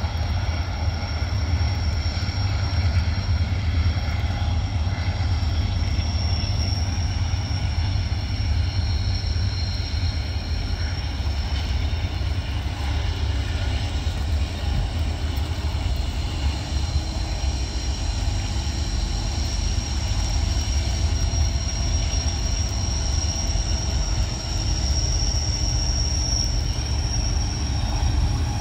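A diesel-hauled freight train rolling past with a steady, heavy low rumble and a continuous high-pitched wheel squeal.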